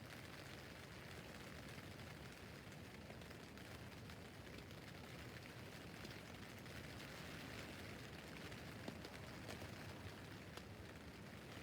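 Rain falling steadily on a tent roof: a faint, even hiss with scattered individual drop ticks.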